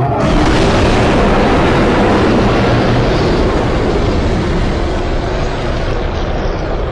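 A custom-made roar sound effect for Galactus: one long, loud, noisy roar that starts suddenly and holds for several seconds, beginning to ease near the end.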